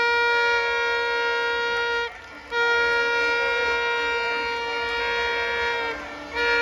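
A horn blown in long, steady, high blasts on a single held note, cutting out briefly twice and starting again.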